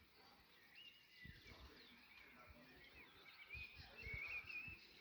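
Faint birdsong, quick warbling chirps, with a few short low thumps about a second in and again near the end.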